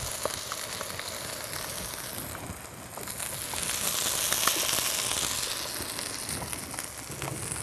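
Chicken pieces searing skin side down on a home electric griddle: a steady sizzle with scattered small pops, growing a little louder in the middle.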